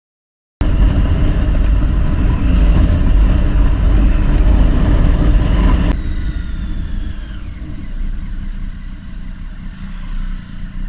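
Motorcycle riding with a heavy rush of wind on the helmet-camera microphone over the engine, starting abruptly about half a second in. About six seconds in it cuts to a quieter stretch where the engine note falls as the bike slows.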